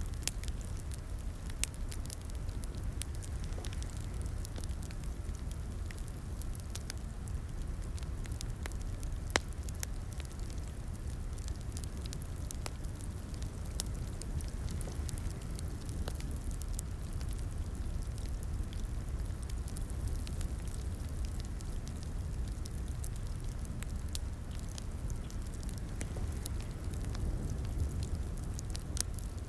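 Wood fire in a fireplace crackling steadily, with a low rumble of burning under frequent sharp pops and snaps and one louder pop about nine seconds in.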